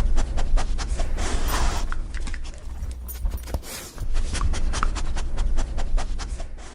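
A dog panting rapidly close to the microphone, with a steady low rumble underneath.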